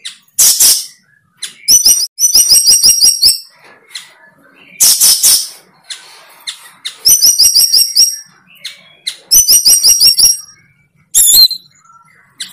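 A bird singing: runs of rapid, evenly spaced high notes, about seven a second, alternating with short harsh rasping phrases.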